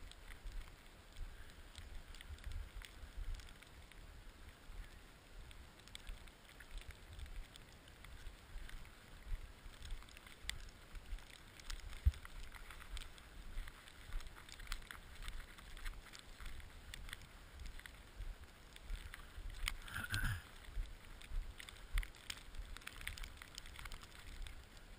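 Wind buffeting the microphone in uneven gusts, with scattered clicks and crackles, and a brief louder burst about twenty seconds in.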